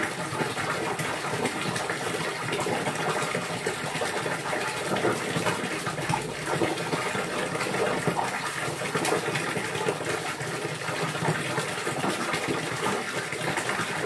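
Steady rush of running, gushing water.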